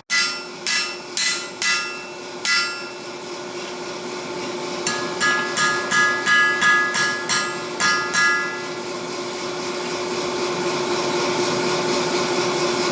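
Hammer striking a langseax blade of 80CrV2 steel on an anvil, each blow ringing: a slower group of about five blows, a pause, then a quicker run of about ten. Underneath is a steady hum and a rushing noise that grows louder near the end.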